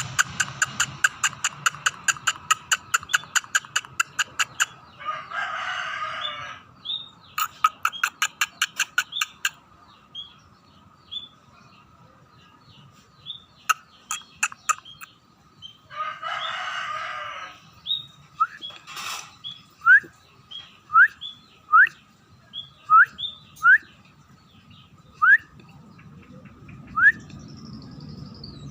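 Scaly-breasted munia calling: fast runs of sharp clicks, then a series of short rising chirps. A rooster crows twice in the background.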